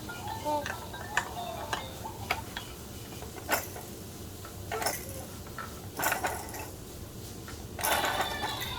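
Plastic toy parts on a baby activity jumper clicking and clacking as they are knocked about: scattered sharp knocks a second or so apart, with a longer rattle near the end.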